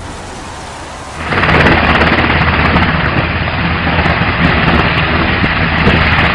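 Helicopter noise. About a second in it changes abruptly to a much louder, steady rushing noise that carries on.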